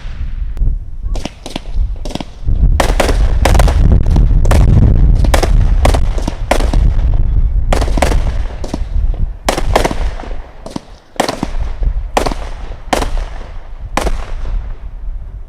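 Consumer firework cake firing a rapid string of aerial shots, about two a second, with sharp cracks and a heavy low rumble from overlapping bursts that is loudest a few seconds in.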